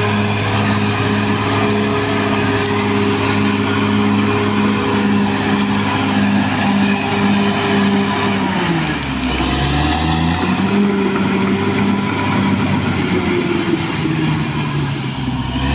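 Caterpillar D6R XL bulldozer's diesel engine running hard at a steady pitch. Just past halfway its speed drops sharply, then climbs back up over the next couple of seconds.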